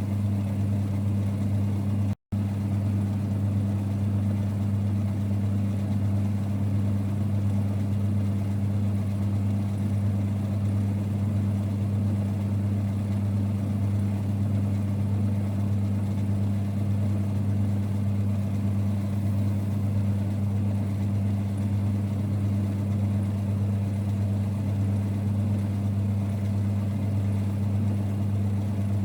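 A 1946 Boxford lathe running at a steady speed, with a constant low rumble and hum. The sound cuts out for an instant about two seconds in.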